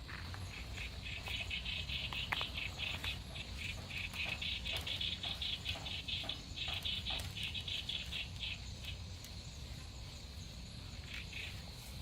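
Insects chirping in rapid, even pulses at a high pitch. The chirping fades for a moment late on and picks up again near the end, with a few faint clicks scattered through it.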